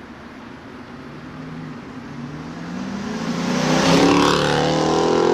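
Dodge Challenger R/T's 5.7 Hemi V8 through a Corsa exhaust, growing louder and rising in pitch over the first four seconds as the engine picks up revs, then holding at high revs near the end.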